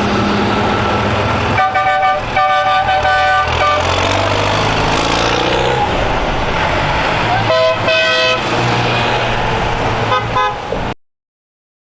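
Tractor engines running as they drive off, with horns tooting: two toots about two seconds in, a longer one near eight seconds and a couple of short ones just after ten seconds. The sound cuts off about eleven seconds in.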